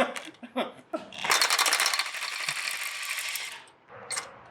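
A few metal clicks and clinks of tools, then a power ratchet running on a bolt for about two and a half seconds, a fast rattle that stops suddenly.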